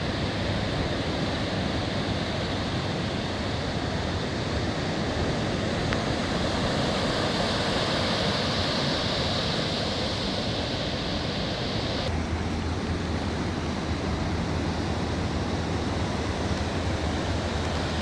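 Ocean surf washing onto a sandy beach, a steady rushing hiss with wind buffeting the microphone. The upper hiss swells in the middle and drops off abruptly about two-thirds of the way through.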